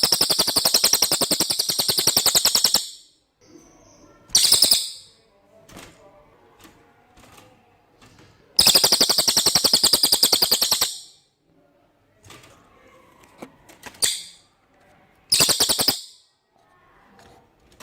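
Cililin songbird singing loud, very rapid high trills of repeated notes: two long trills of two to three seconds, at the start and about halfway through, with short bursts and a shorter trill between them.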